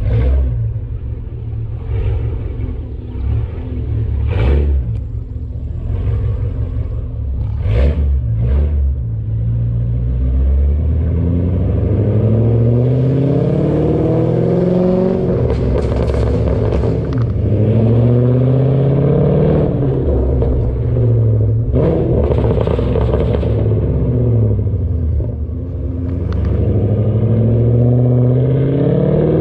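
Mercedes CLK500's V8 engine idling, with a few short knocks in the first several seconds. About ten seconds in, the car pulls away and accelerates, the engine note rising and dropping back several times as it shifts up through the gears.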